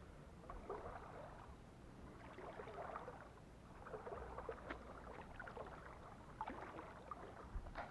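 Shallow river water sloshing and splashing around wading legs, in soft surges every second or two with small clicks and drips.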